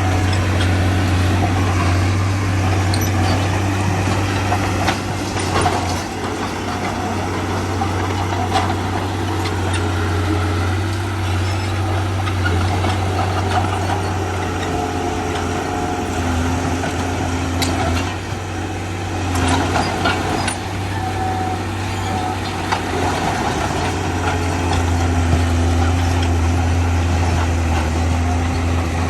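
Heavy diesel engine of earthmoving machinery running steadily under load, with a deep, even drone. A few sharp knocks and clanks come through at intervals, the loudest cluster just past the middle.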